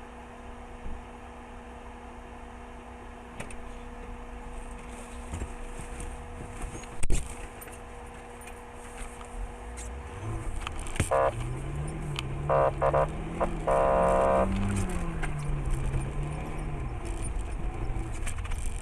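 A car on the move, heard from inside: a steady running hum with a sharp knock about seven seconds in. From about eleven seconds a car horn sounds three times, the last blast the longest, while the engine's pitch rises and falls.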